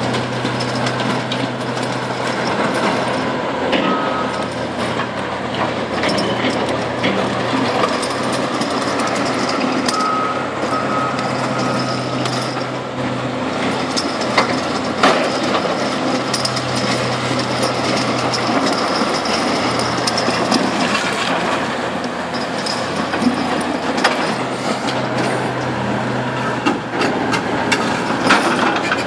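Heavy diesel machinery running steadily, with a backup alarm giving short beeps about four seconds in and again a few times around the middle, and a few scattered knocks.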